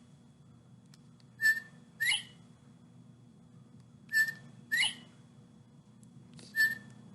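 Northern bobwhite's two-note "bob-white" whistle: a short level note followed by a sharply rising one, given three times about two and a half seconds apart.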